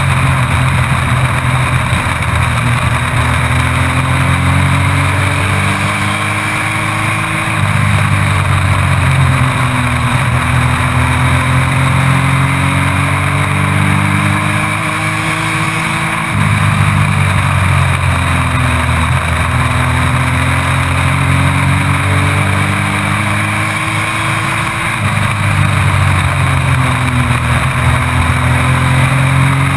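Race truck engine heard onboard, climbing steadily in pitch down each straight and dropping as it lifts for the turns, three laps' worth about every eight to nine seconds. A constant rush of wind and road noise runs underneath.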